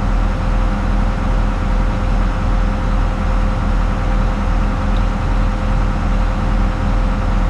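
Hitachi Zaxis 250 excavator's diesel engine running steadily, a low engine note with a thin steady tone over it.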